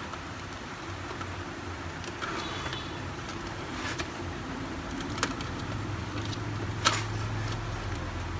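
Plastic clicks and handling noise as the printer's paper input tray is bent and snapped into its side mount, with sharp clicks about four, five and seven seconds in, over a steady low hum.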